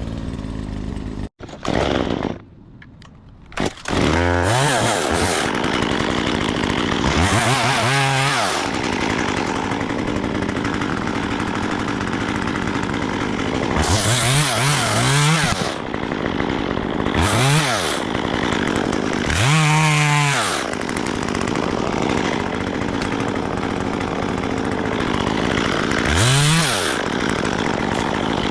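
Gas chainsaw running at a steady high speed, its pitch swooping up and back down again and again as the throttle is worked while cutting tree limbs. The sound cuts out briefly in the first few seconds, then runs on steadily.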